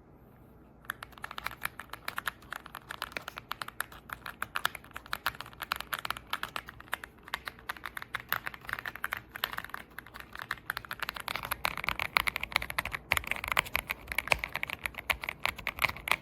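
Fast, continuous typing on a gasket-mounted 75% mechanical keyboard, the EPOMAKER x Aula F75 with Ice Vein linear switches, its keystrokes clicking densely. It starts about a second in and gets a little louder in the last few seconds.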